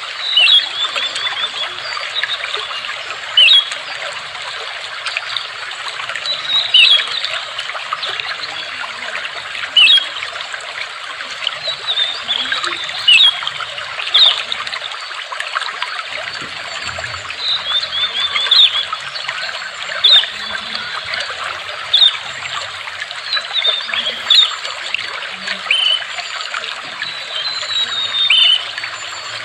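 Water trickling and gurgling steadily, with a bird giving short high chirps and quick trills that recur every two to three seconds.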